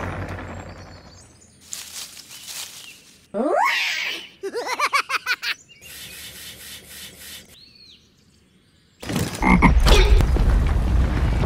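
A string of short cartoon sound effects: a quick rising glide, then a rapid croaking rattle of about eight pulses in a second, a small high ring, and a loud low rumble starting near the end.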